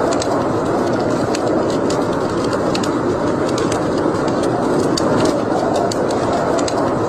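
Wood fire burning in a fireplace: a steady rushing noise with frequent small, sharp crackles and pops at irregular moments.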